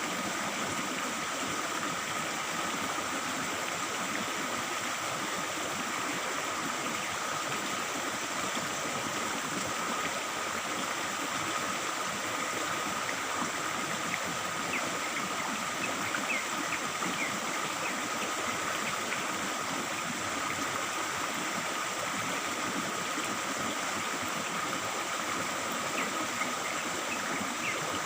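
Stream water flowing and babbling steadily over rocks, with a few short, faint bird chirps about halfway through and again near the end.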